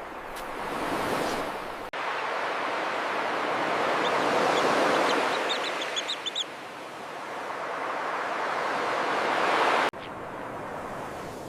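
Ocean surf washing on a beach, swelling and easing, with a brief burst of high, quick bird chirps about six seconds in. The surf sound breaks off abruptly twice and resumes.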